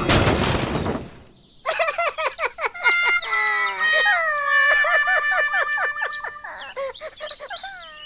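A rushing noise that cuts off about a second in, then, after a short gap, many overlapping bird calls: chirps gliding up and down, with some held notes.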